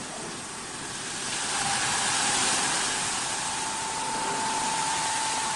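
CNC wood lathe working a wooden table leg: a hiss of cutting or sanding swells about a second in, and a steady machine whine joins it, rising slightly and then holding.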